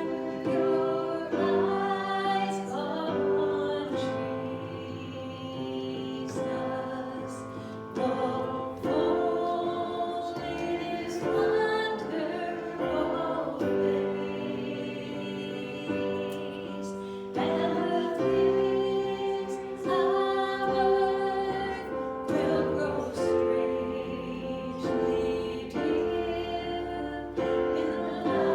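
Worship song: voices singing long, held notes with piano accompaniment.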